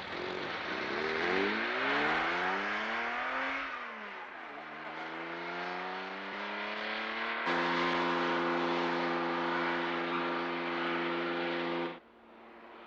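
Porsche 911's air-cooled flat-six engine accelerating through the gears: the revs climb, drop at a shift about four seconds in, then climb again. From about halfway it holds a steady note, which cuts off suddenly near the end.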